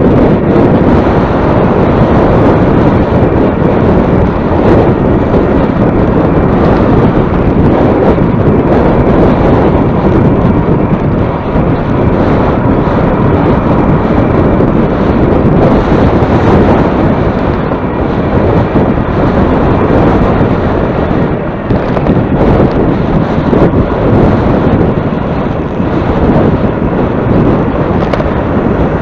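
Heavy wind buffeting the microphone while moving into a headwind: a loud, steady rumble and roar without pause.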